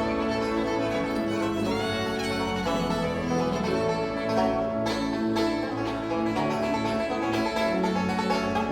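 Bluegrass band playing an instrumental passage: fiddle lines over banjo and guitar, the banjo picking growing denser about halfway through.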